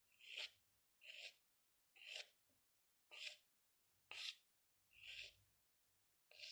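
Drawing strokes on paper: short scratchy swishes of a pen or pencil, about one stroke a second, in a steady rhythm.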